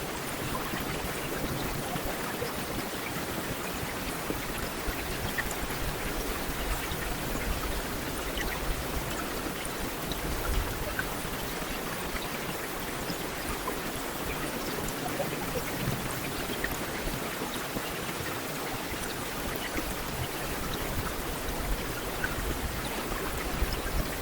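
Heavy rain falling steadily on a street, an even hiss with scattered individual drops ticking through it.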